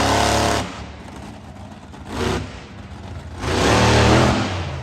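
Monster truck engine revving in repeated bursts: a half-second rev at the start, a short blip about two seconds in, and a longer rev about a second before the end, with the engine's lower running sound in between.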